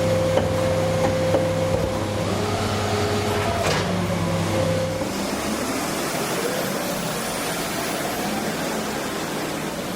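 Garbage truck running: a steady engine hum that drops away about five seconds in, a sharp clunk a little before four seconds, then a rising whine over street noise.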